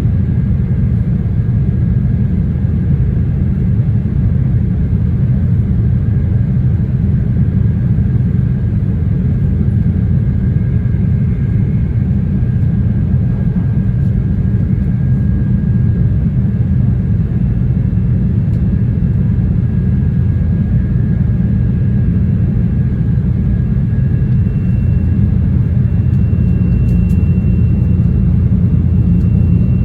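Running noise heard inside a JR East E2 series Shinkansen car: a steady low rumble with a faint high whine, and a second, higher whine growing stronger near the end.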